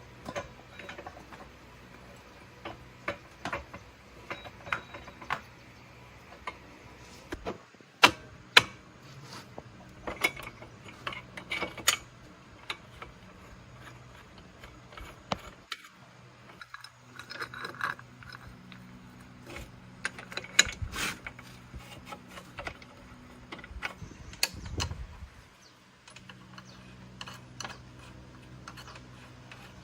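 Metal hand tools clicking and clinking on motorbike parts in irregular taps, some sharp and loud, over a faint steady low hum.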